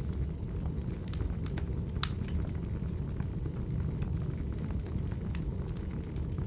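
Wood fire burning: a steady low rumble of the flames with scattered crackles and small pops, one sharper pop about two seconds in.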